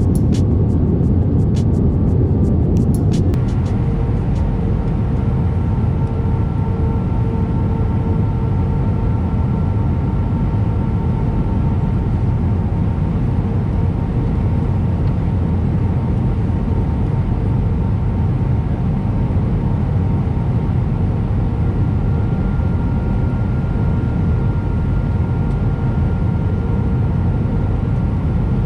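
Airbus A319 cabin noise in flight: a steady, loud rumble of engines and airflow with faint steady whining tones above it. A few sharp clicks sound in the first three seconds.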